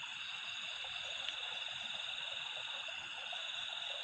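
A steady chorus of frogs and insects calling, high-pitched and unbroken, with one faint tick about a second in.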